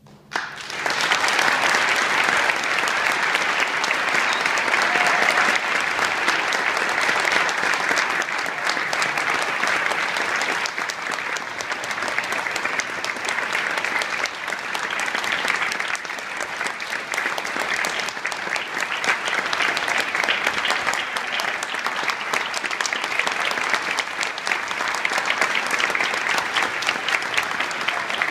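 Concert audience applauding, starting about half a second in as the last chord dies away and carrying on steadily.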